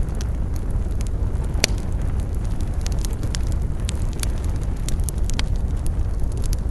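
Campfire burning, with frequent sharp crackles and pops over a steady low rumble; one louder pop comes about a second and a half in.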